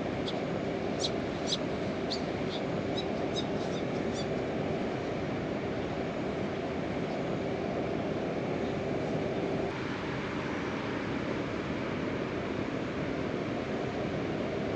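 Heavy rain falling steadily, a dense even hiss. A quick run of about a dozen short high chirps sounds over the first four seconds.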